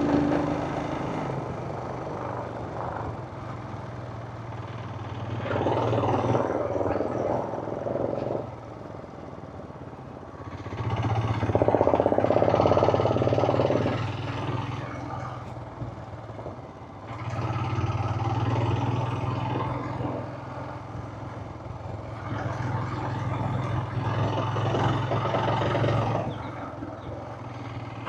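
Motorcycle engine running, swelling louder and easing off again four times, each swell lasting a few seconds.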